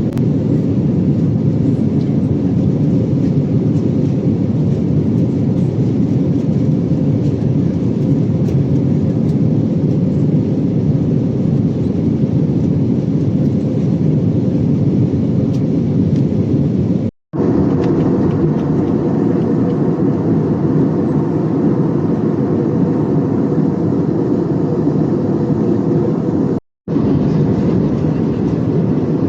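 Steady cabin noise of an Airbus A320 in flight: a low, even rush of engines and airflow heard from a passenger seat. It is broken twice, once about two-thirds of the way in and again near the end, by brief cuts to silence.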